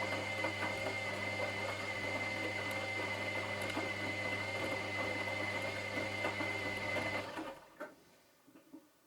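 Washing machine motor running, a steady hum with a high whine over it and many small knocks from the turning drum; a little after seven seconds in the motor stops and winds down, followed by a couple of faint clicks.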